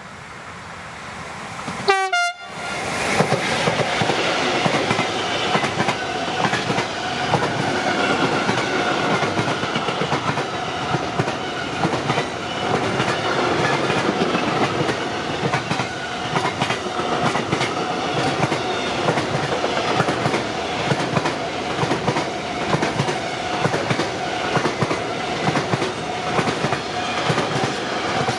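A train passing close by: it comes up quickly, arrives with a sudden loud blast of sound about two seconds in, then goes by continuously, its wheels clicking over the rail joints under a steady rumble with a held tone.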